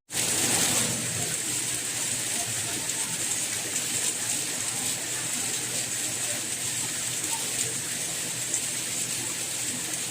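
Steady rain falling, an even hiss with faint scattered drop ticks. The sound cuts out for an instant at the very start, then resumes.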